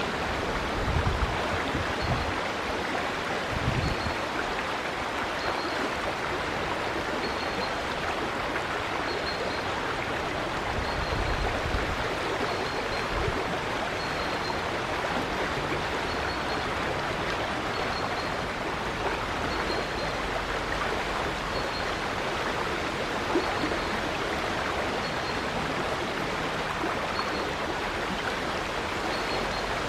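River water flowing steadily, a continuous rushing sound. A faint short high note repeats about once a second, and a few low thumps come in the first few seconds and again around eleven seconds in.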